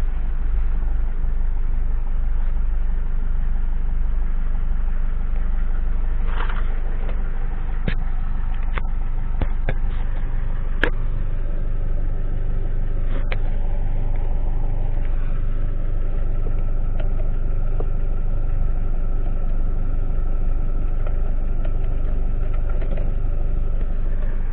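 Renault Trafic dCi 115 diesel engine idling steadily, with a few sharp clicks and knocks in the middle.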